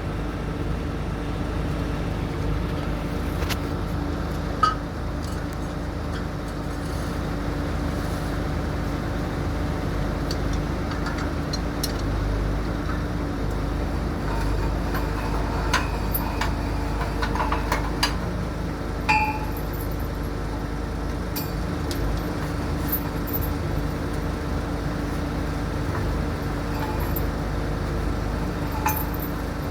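Heavy construction machinery's diesel engine running steadily, with scattered sharp metallic clinks and knocks.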